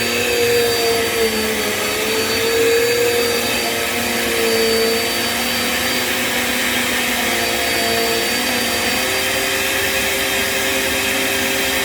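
Small Bissell vacuum cleaner running steadily while vacuuming a rug. Its motor hum wavers in pitch for the first several seconds, then holds steady near the end.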